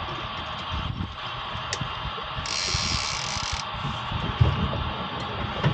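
Boat VHF radio relaying a stuck-open transmission: the steady running of someone's outboard motor, broken by a burst of hiss for about a second midway.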